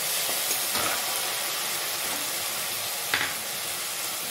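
Food sizzling in hot oil in a wok, with a metal spatula scraping and knocking against the pan about a second in and again just after three seconds.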